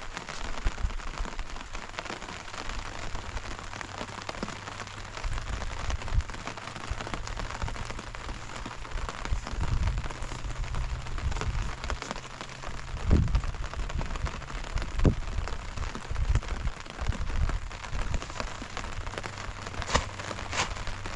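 Steady rain falling on surfaces, with scattered low thumps.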